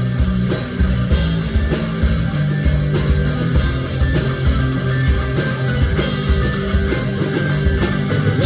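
Live rock band playing an instrumental passage between sung lines: electric guitar chords over bass and a steady drum beat.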